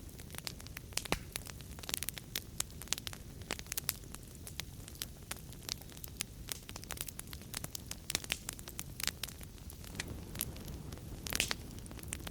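Wood fire crackling in a fireplace: a steady low rumble of flames with frequent small pops and snaps, a few louder snaps about eleven seconds in.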